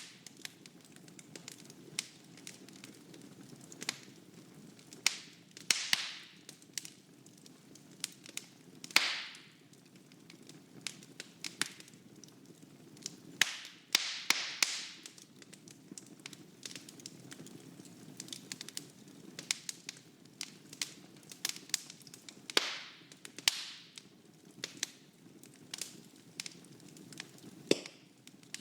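Wood fire burning in a fireplace: irregular crackles and sharp pops over a steady low rumble of flame, with a few louder hissing pops now and then.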